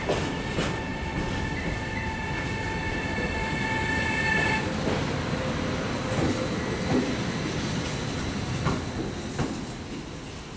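Container freight train passing close by: steady rumble of wagon wheels on the rails with clickety-clack over the rail joints. For the first four and a half seconds a high, steady wheel squeal rings over the rumble. Near the end the rear Siemens ES 64 F4 electric locomotive goes by and the sound begins to fade.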